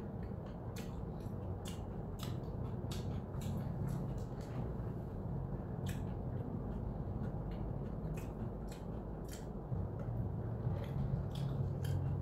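Close-up eating sounds: chewing a sandwich, with scattered small clicks and smacks, over a steady low hum.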